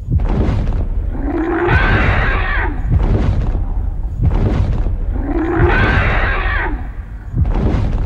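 Dinosaur roar sound effect standing in for a Plateosaurus, whose real voice is unknown. A growling roar swells and fades twice, about four seconds apart, over repeated heavy low thuds.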